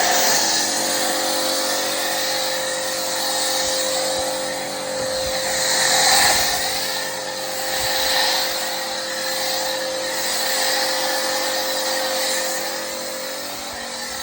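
Pressure washer running with its motor humming steadily, spraying Polar Seal through a snow foam lance; the spray hiss swells and fades as it sweeps across the car.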